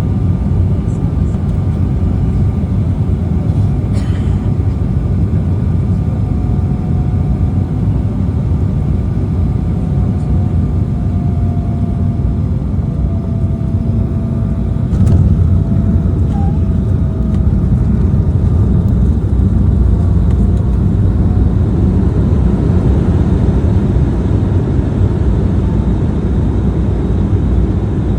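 Steady low rumble of an Embraer E190 airliner heard from inside the cabin: engine and airflow noise, with a faint whine that drifts in pitch partway through and the rumble growing slightly louder about halfway in.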